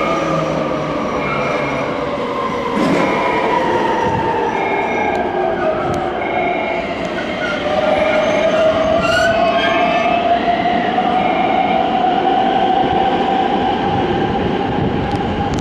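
Electric train moving along a station platform: a motor whine that falls in pitch over the first several seconds, then a second whine that rises steadily in pitch, over rumbling wheel and track noise. Short repeated high beeps sound about once a second throughout.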